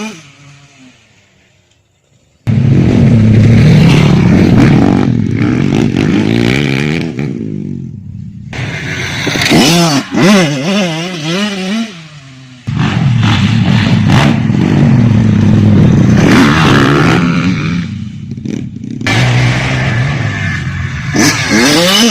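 Motorcycle engine running hard on a grasstrack circuit, revving up and down. It cuts in suddenly about two and a half seconds in and dips briefly about halfway through.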